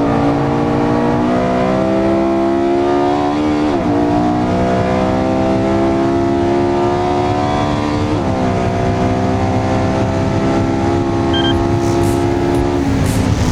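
Porsche 918 Spyder's V8 under hard acceleration, its note climbing steadily through the gears with quick upshifts about four and eight seconds in, then the note falls away near the end.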